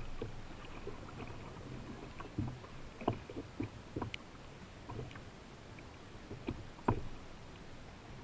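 Canoe paddling on a river: water noise with irregular knocks and splashes of paddle strokes against the boat, the loudest knock about seven seconds in.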